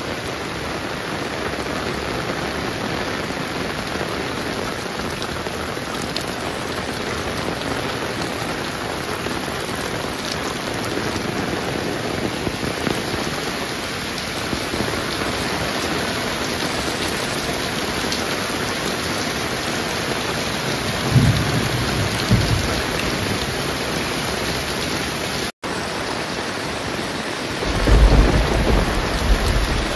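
Heavy rain falling steadily and hard, with deep rumbles about 21 seconds in and again near the end. The sound drops out for a split second at about 25 seconds.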